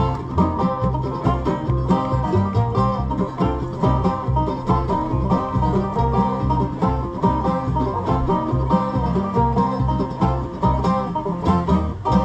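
Acoustic bluegrass band playing an instrumental passage, with banjo picking over guitar and a steady bass line; the playing stops at the very end.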